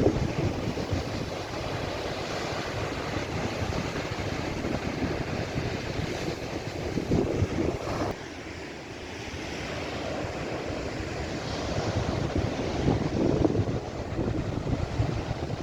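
Sea waves surging and washing in, with wind buffeting the microphone. The surf swells louder twice, with a sudden drop in level about eight seconds in.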